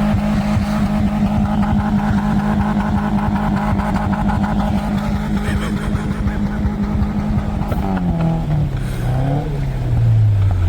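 A car engine held at high, steady revs, then the revs falling away about eight seconds in and sliding down again near the end.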